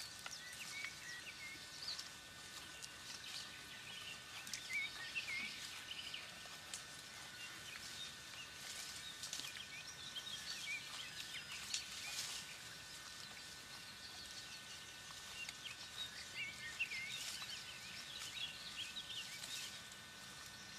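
Open-pasture ambience: small birds chirping and twittering in short clusters, with scattered soft clicks and crackles.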